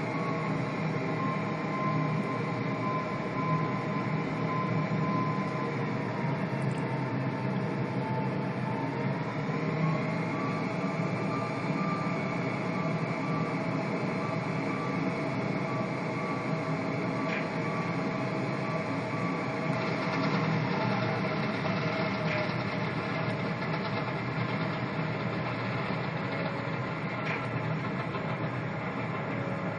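Cabin noise of an Avro RJ100 in flight: a steady rush with the whine of its four Honeywell LF507 turbofan engines. The whine dips in pitch and comes back up, and about twenty seconds in the noise turns brighter and hissier as one tone slides lower.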